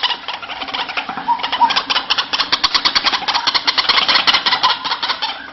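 White-breasted waterhen calling: a fast run of harsh, clicking croaks, about ten a second, carrying on without a break.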